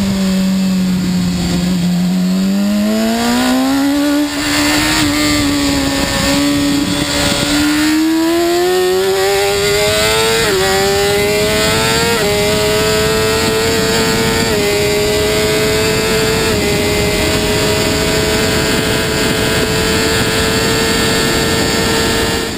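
BMW S 1000 RR inline-four engine at speed: the revs dip, then climb twice. It then holds high, with four quick upshifts, each a small step down in pitch, about every two seconds. It cuts off suddenly at the very end.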